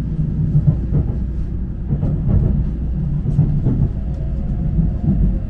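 Tokaido Shinkansen bullet train running, heard from inside the passenger cabin: a steady low rumble with a few light clicks.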